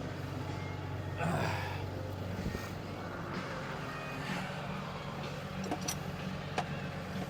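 Truck diesel engine idling steadily, with a brief metallic scrape about a second in and a few sharp tool clinks near the end.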